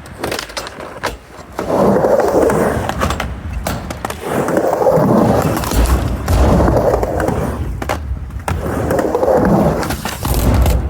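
Skateboard wheels rolling back and forth across a mini ramp, the rolling noise swelling with each of about four passes. Sharp clacks of the board come now and then between the runs.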